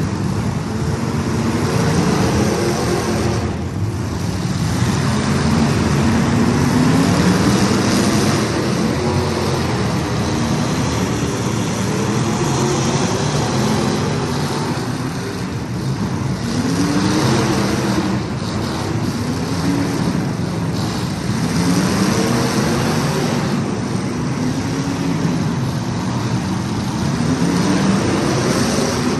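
Several racing engines lapping a track, revving up and backing off over and over as the cars pass and go through the turns.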